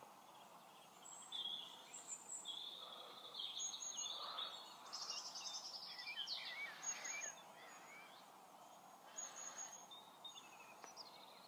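Songbirds singing faintly: a run of short high chirps and trills, busiest in the first two thirds, over a faint outdoor hiss.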